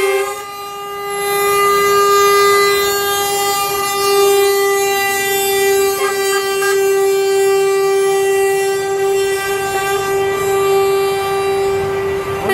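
Truck air horn blown in one long steady note, dipping briefly just after the start and then held on without a break.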